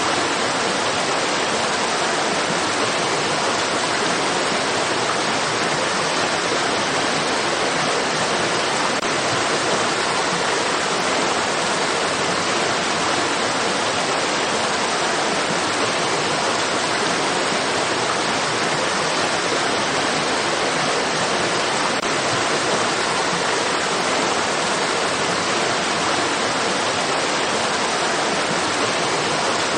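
Steady rushing of a stream's running water, an even, unbroken hiss-like wash without changes.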